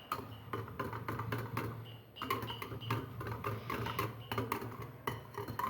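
A spoon or whisk clicking and tapping irregularly against a bowl as a thin flour batter is stirred, with a steady low hum underneath.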